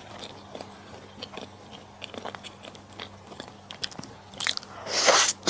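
Close-miked chewing of malatang with small crunches and wet mouth clicks, then a loud slurp near the end.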